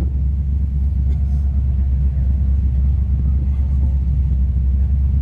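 Holden VH Commodore HDT Group 3's V8 engine and tyres rumbling steadily, heard from inside the cabin while the car cruises at an even pace.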